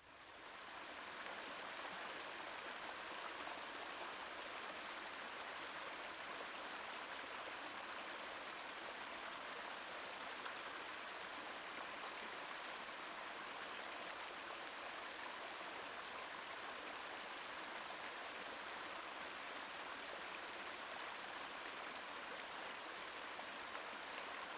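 Small river cascading over rocks: a steady rush of water, swelling up over the first second and then holding even.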